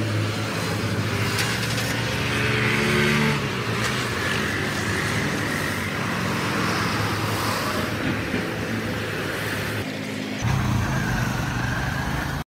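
Car engine idling with a steady low hum. It changes abruptly to a different steady hum near the end.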